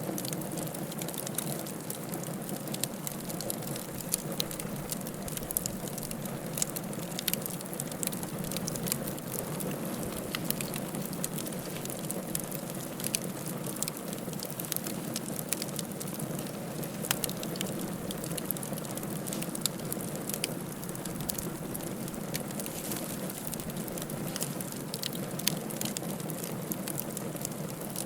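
Wood fire crackling in a fireplace: a steady hiss of burning with many small, sharp pops throughout.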